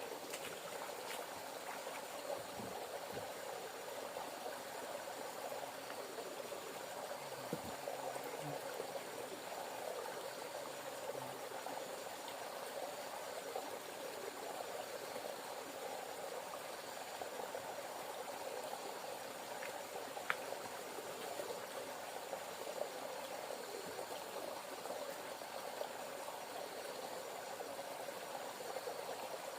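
Steady rush and babble of flowing river water, with a few faint clicks and soft low knocks.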